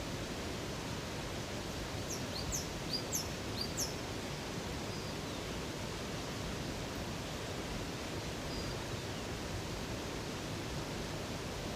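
Steady rush of flowing water. About two seconds in, a bird gives a quick run of five or six short high chirps, and a few faint, thin, falling whistles follow later.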